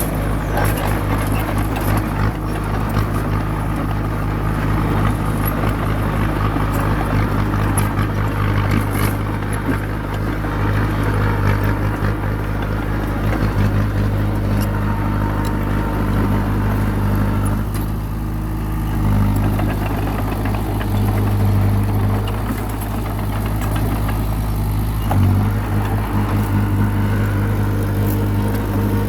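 Small Komatsu bulldozer's diesel engine running steadily, with a few knocks over it; the engine note shifts briefly about two-thirds of the way in and again near the end.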